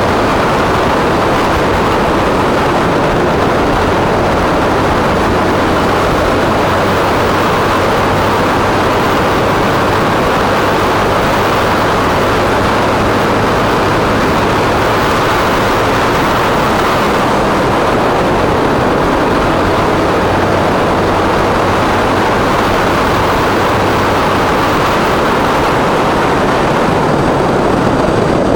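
Motorcycle on the move: a steady rush of riding noise, mostly wind, with the engine's low hum underneath.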